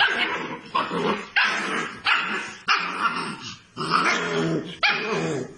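A dog barking repeatedly: about eight loud barks in a row with short gaps between them.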